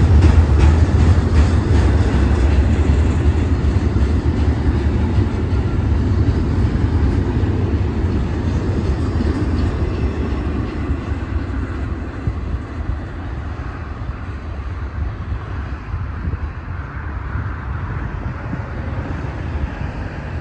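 A train passing on the rails, its rumble and wheel clatter loudest at first and fading steadily as it moves away.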